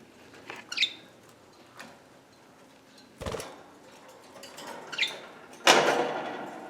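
Budgies in a cage giving a couple of short, high chirps, with a knock a few seconds in and a louder rustling clatter near the end that fades over about a second.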